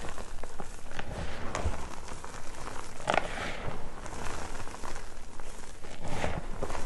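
Reformed gym chalk pieces crunching and crumbling as they are crushed, a run of light crackling broken by a few sharper crunches, the strongest about three seconds in.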